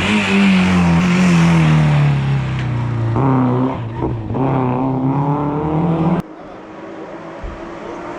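A hill-climb race car's engine passing at full throttle, its note falling as it goes by, then revving up twice more as it shifts up through the gears. The sound cuts off abruptly about six seconds in, leaving a quieter steady background.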